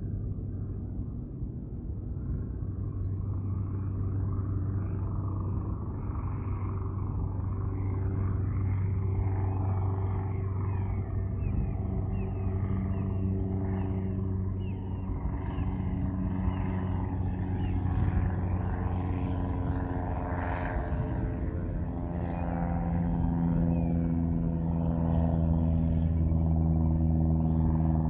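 A low, steady engine drone from an aircraft overhead, growing slightly louder toward the end, with many birds chirping over it.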